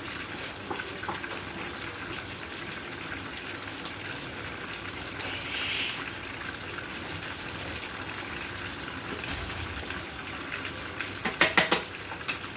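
Meat sauce bubbling and sizzling in a pan on the stove, a steady hiss with a brief louder surge about halfway. Near the end comes a quick run of sharp clinks, a utensil against the pan.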